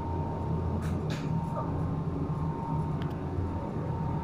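Steady low machinery hum with a thin steady high tone, and a few short clicks about a second in and again near three seconds.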